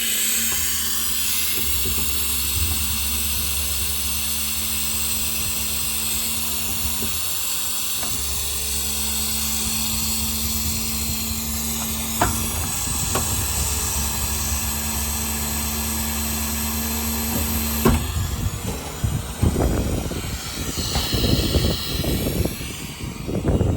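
Truck-mounted hydraulic air compressor running, a steady hum under a loud hiss, then cut off suddenly about eighteen seconds in. Irregular rumbling and knocks follow after it stops.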